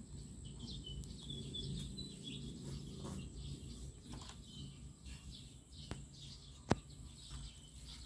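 Faint birds chirping in the background over a low steady hum, with a sharp click about two-thirds of the way through.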